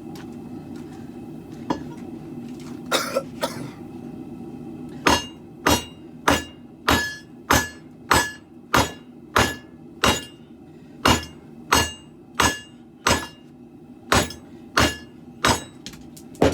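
Hand hammer striking hot steel on an anvil while forging a sword blade: a few scattered blows, then, about five seconds in, a steady run of ringing strikes, about three every two seconds. A steady low hum runs underneath.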